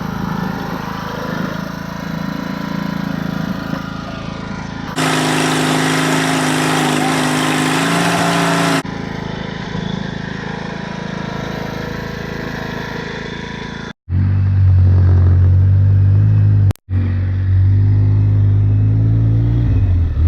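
Small engines running and revving across several cut-together clips, the sound changing abruptly at each cut. The last clip, about two-thirds through, is the loudest, with a deep steady hum.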